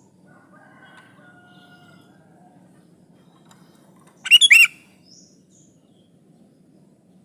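Sooty-headed bulbul calling: a short, loud burst of about four quick notes a little past the middle, after a few faint whistled notes.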